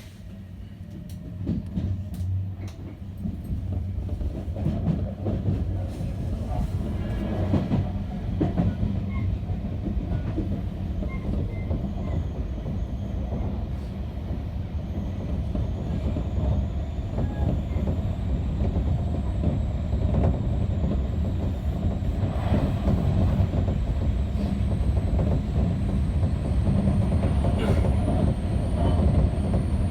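Odakyu electric train pulling away and running: a low rumble that grows over the first few seconds and then holds steady. Sharp wheel clicks over the rails are scattered through it, and from about twelve seconds in a faint high whine slowly climbs in pitch.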